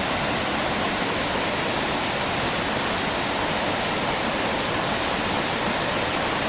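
Waterfall cascading over rock steps, a steady, even rush of falling water.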